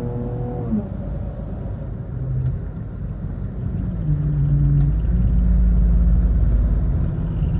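Car engine and road rumble while driving. The engine note drops in pitch less than a second in, then a low drone builds and grows louder from about four seconds in.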